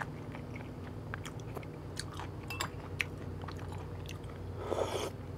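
Close-up mouth sounds of a person chewing food, with small wet clicks over a steady low hum. About four and a half seconds in comes a short slurp, as a spoonful of soup is sipped.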